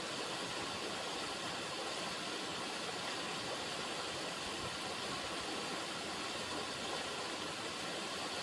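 River water running steadily: an even rushing hiss with no pauses or changes.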